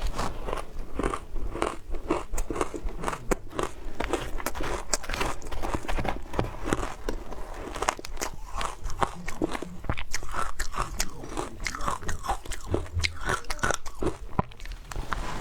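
Close-miked crunching and chewing of matcha shaved ice, with many quick, sharp crackles of ice breaking between the teeth throughout.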